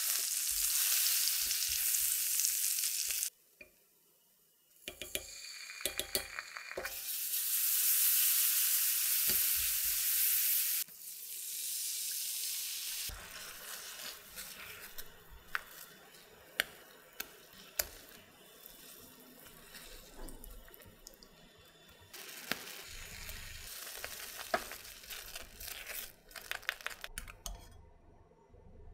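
Potatoes frying in hot oil: a loud, even sizzling hiss in several stretches that stop abruptly at cuts. After about halfway it turns quieter, with scattered sharp clicks.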